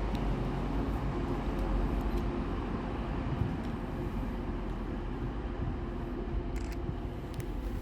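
A train running at a station, a steady low rumble with a few light clicks near the end.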